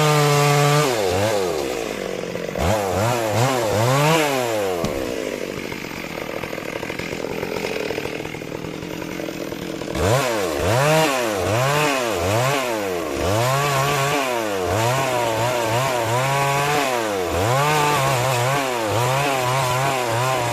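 Stihl MS 382 two-stroke chainsaw ripping lengthwise through a large trembesi (rain tree) log. The engine's pitch rises and falls again and again as the throttle is worked, with a quieter, steadier stretch near the middle.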